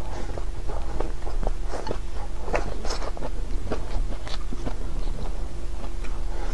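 A person chewing and biting food close to the microphone, a mouthful of braised pork, rice and sliced marinated dried tofu: a steady run of small, moist crunches and mouth clicks.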